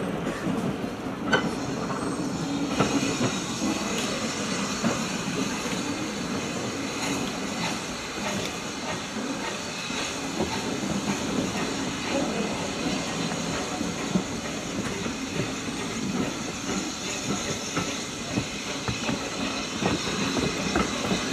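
A rake of railway coaches rolling slowly along the track behind a steam tank locomotive, the wheels clicking over the rail joints.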